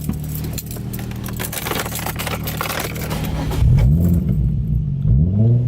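Nissan 350Z's 3.5-litre V6 running steadily at cruise, then about two-thirds of the way in getting louder as it accelerates, the revs climbing and dropping twice.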